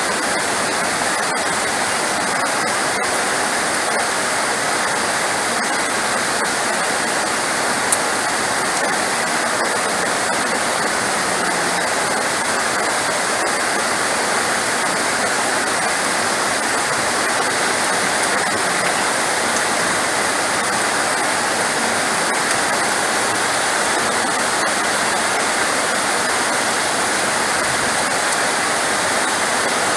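Heavy rain falling in a steady, dense hiss with no letup.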